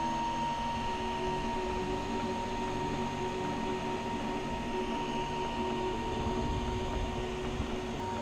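3D printer's stepper motors whining as the machine moves after finishing a print, resetting itself. Several low pitches step up and down every half second or so under a steady high tone.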